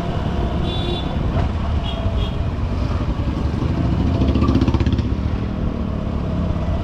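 Honda SP125 commuter motorcycle's single-cylinder four-stroke engine running under way amid dense city traffic noise, picked up by a helmet-mounted camera. The rumble swells briefly a little past the middle.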